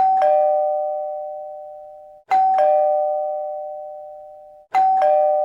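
Two-tone ding-dong doorbell chime sounding three times, each a higher note followed by a lower one that ring on and fade over about two seconds; the third chime is cut off near the end.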